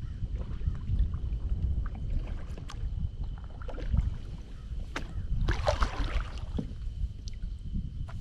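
Wind buffeting a GoPro's microphone as a low, gusty rumble, with scattered knocks from the kayak and a brief rushing noise about five and a half seconds in. A faint steady high tone runs underneath.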